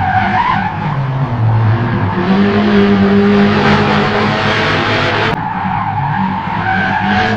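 Racing car engine running hard with tyres screeching, the engine pitch stepping up about two seconds in and the sound changing abruptly about five seconds in.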